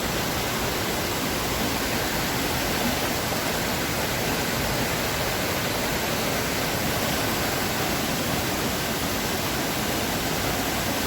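Steady rushing water, a river or waterfall, at an even level throughout.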